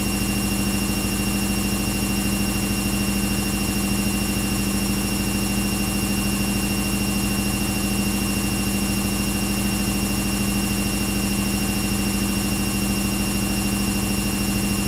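Washing machine running with a steady, unchanging low hum and a thin high whine above it.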